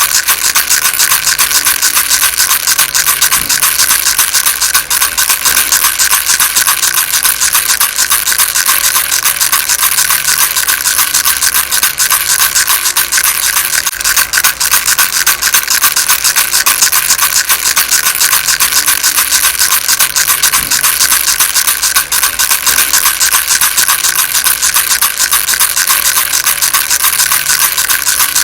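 Baby rattle shaken without a break: a fast, dense, steady rattling that keeps the same loudness throughout.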